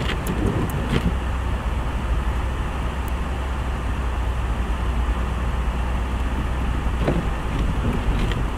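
Steady road and engine noise heard inside a moving car's cabin, a low rumble with tyre hiss, and a few faint clicks.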